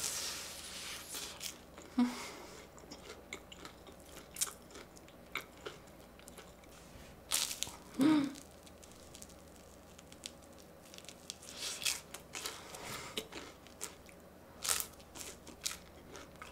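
A person biting into and chewing a crispy-battered corn dog: irregular crunches and chewing sounds, with louder bites at the start, about 2 s in and about 8 s in.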